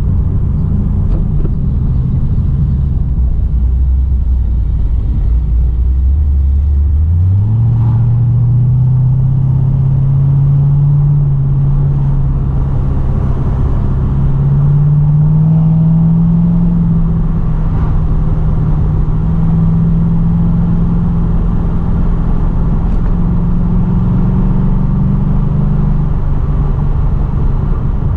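2012 Chevrolet Caprice PPV with modified exhaust and valvetrain, driving. The engine drones low at first. About a quarter of the way in the revs jump up as it accelerates, keep climbing, then hold a steady higher drone and ease off slightly near the end.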